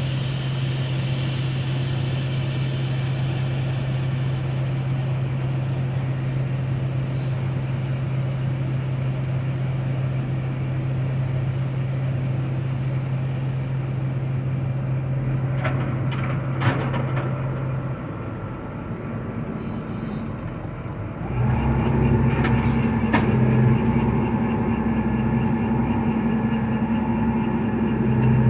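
Heavy harvest machinery running: a large engine with a steady low hum, with a few clicks a little past halfway. About three quarters of the way in, a louder engine with a higher hum takes over.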